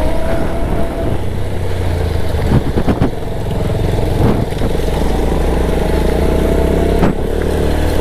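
Motorcycle engine running steadily while riding, with a few short knocks and clatters about two and a half, three, four and seven seconds in.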